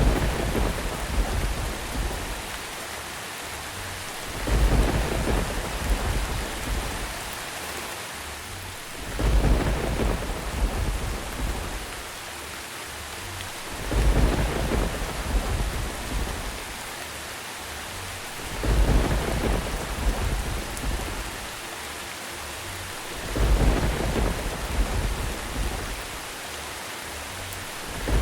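Steady rain with rolls of thunder that recur at even intervals about every five seconds, each rumble swelling suddenly and fading over a couple of seconds.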